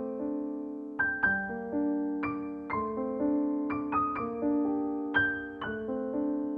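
Background music: a gentle keyboard piano melody, single notes and chords struck at an easy pace and left to ring and fade.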